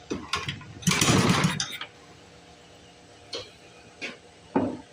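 1952 Briggs & Stratton Model 6 small engine being pull-started. About a second in, one pull turns it over in a short loud burst, but it does not catch and keep running; a few clicks and a knock follow.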